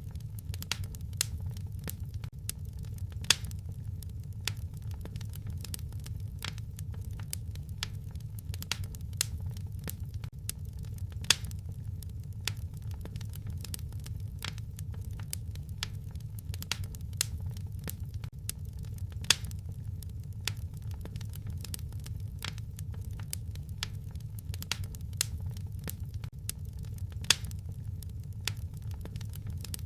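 Wood fire crackling in a fireplace: a dense, irregular stream of small snaps and pops over a steady low rumble of the flames, with a few sharper pops standing out.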